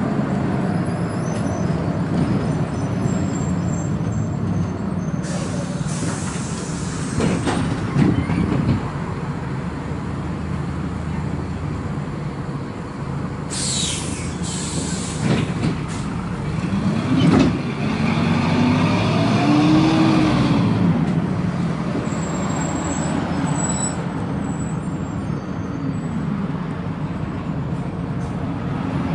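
Four-cylinder diesel engine of an Agrale MT 17.0 LE city bus running, with air hissing out of the air brakes twice, about five seconds in and again around fourteen seconds in. About halfway through, the engine note rises and falls as the bus accelerates.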